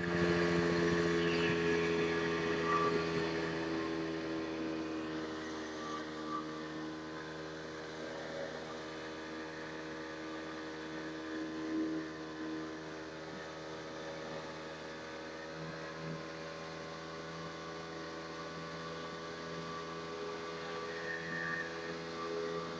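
Motorboat engine running at a steady speed, a little louder in the first few seconds, then holding an even tone.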